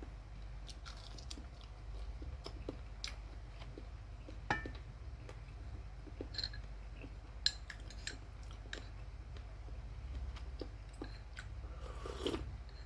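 Close-up chewing of crunchy fried chicken skin: irregular small crunches and wet clicks of the mouth, with a sharper crack about halfway through and a louder crunch near the end.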